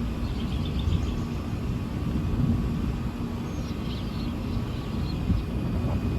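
Low, continuous thunder rumbling through a severe thunderstorm, with a few faint high chirps over it.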